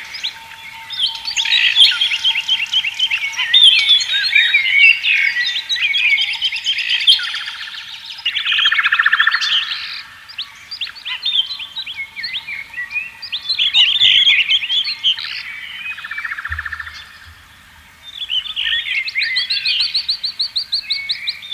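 Several wild songbirds singing at once: a dense mix of chirps, whistles and fast trills, with a short lull about three-quarters of the way through.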